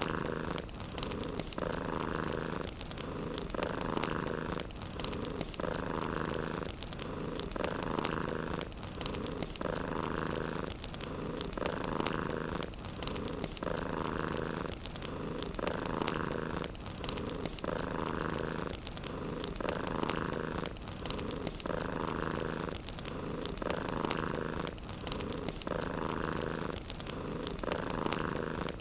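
Domestic cat purring close up, in a steady rhythm of about one breath every two seconds, alternating a lower and a higher phase as it breathes in and out. Fine crackling of a fireplace runs underneath.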